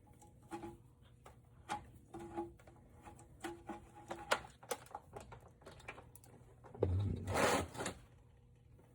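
Scattered light metallic clicks and taps of a wrench working the engine oil drain plug loose under a truck, with a short burst of rushing noise about seven seconds in.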